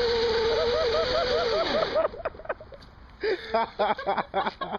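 Hot-rodded riding lawnmower's engine running steadily at speed; its note falls and cuts out about two seconds in. Scattered knocks and brief sounds follow as the mower, going too fast to turn, crashes.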